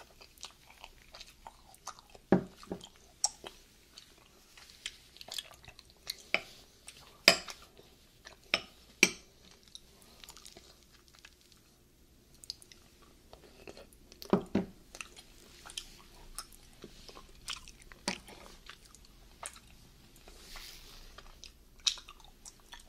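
Close-miked chewing and wet mouth sounds of someone eating coffee-flavoured coconut frozen dessert with chewy tapioca pearls. Irregular sharp clicks run through it, with a metal spoon tapping and scraping in a glass bowl, and a few clicks stand out louder than the rest.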